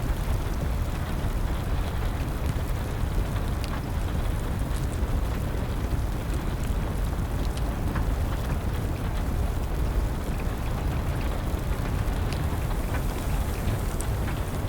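Steady rain falling, with a wood fire crackling in sparse, sharp pops over it.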